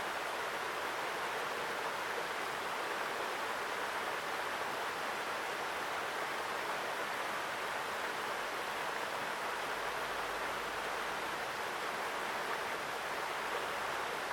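A mountain stream rushing strongly over rocks, a steady, even water noise.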